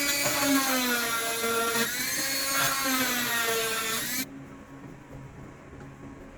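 Small electric power tool motor running with a high whine. It starts suddenly, its pitch dips twice while it works, and it cuts off after about four seconds.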